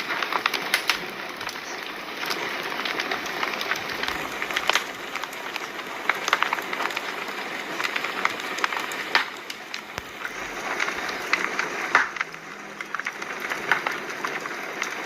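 Fire crackling: frequent irregular sharp pops and snaps over a steady hiss.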